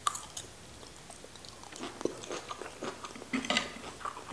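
A person chewing a mouthful of cooked green beans: soft, wet crunching with small clicks, busier in the second half. A sharp click comes right at the start.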